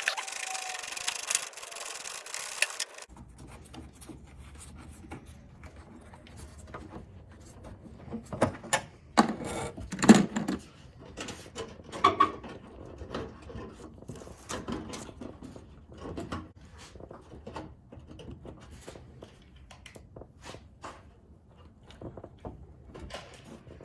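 A car's metal fender being handled and fitted into place: scattered knocks, taps and rubbing, with a few louder knocks around the middle. The first few seconds hold a steady hiss that stops suddenly.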